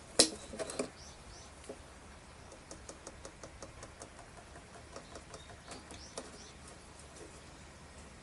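Hand tools and motorcycle brake parts being handled: one sharp click about a quarter second in, then scattered light clicks and taps.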